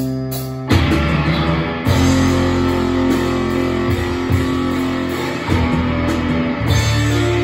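A live band playing a guitar-led passage: chords ringing over low sustained notes, turning fuller and noisier about a second in.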